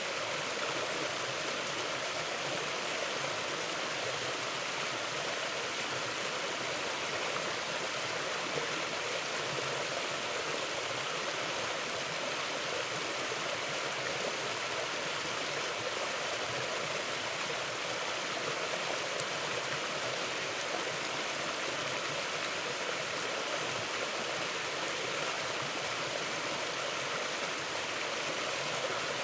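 Mountain river flowing steadily, an even, continuous rush of water with no change in level.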